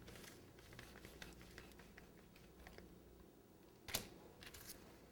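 Faint small ticks and scrapes of a knife carving a chilled layered cake, with one sharper click about four seconds in.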